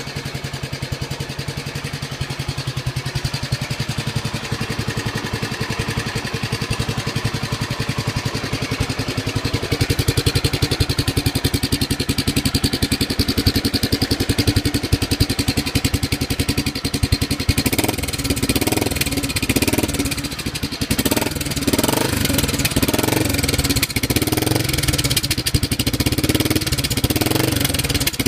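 Honda GB400TT Mk II's single-cylinder four-stroke engine idling steadily. It gets louder about ten seconds in. In the last third the exhaust note is deeper and louder, swelling about once a second.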